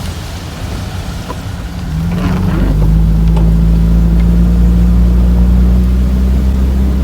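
A van's engine running under way; about two seconds in the engine note rises and gets louder, then holds at a steady higher drone.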